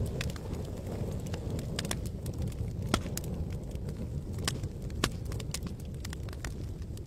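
Wood campfire crackling and popping, with irregular sharp snaps, two louder pops about three and five seconds in, over a steady low rumble.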